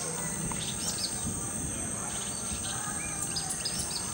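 Tropical rainforest ambience: a steady, high-pitched insect drone, with short bird chirps scattered through, in small groups about a second in and again near the end.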